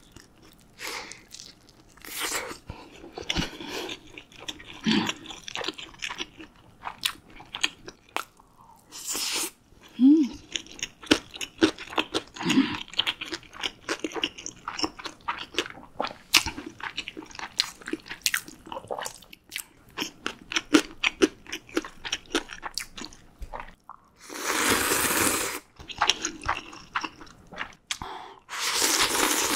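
Close-miked chewing of a large mouthful of tuna gimbap, with crunching and wet mouth clicks. Near the end come two long slurps of ramyun noodles.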